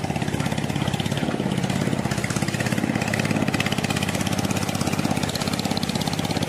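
A small engine running steadily at an even speed, with a fast, regular pulsing beat.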